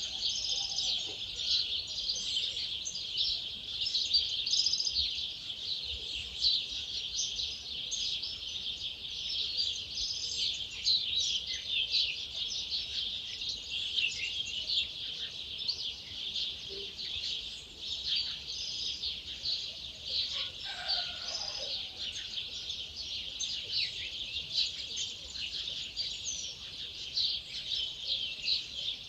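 Dawn chorus: many wild birds singing at once, a dense, continuous mix of high chirps and trills, with a lower call standing out about twenty-one seconds in.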